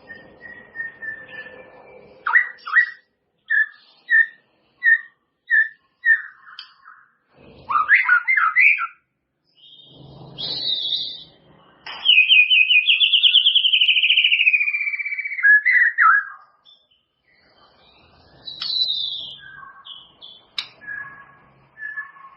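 White-rumped shama singing a varied whistled song. It opens with a run of short clear notes, about one and a half a second, then gives a quick tumbling phrase, then a long warbling trill that slides slowly downward for about four seconds, and ends with scattered notes.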